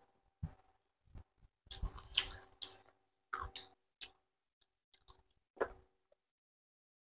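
Chewing and lip-smacking of people eating chicken feet with their fingers, an irregular run of short wet smacks and clicks that stops about six seconds in.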